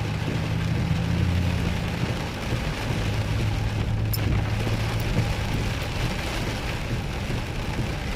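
Heavy rain on a moving vehicle, heard from inside, over the engine's steady low hum, with a few sharp ticks from drops.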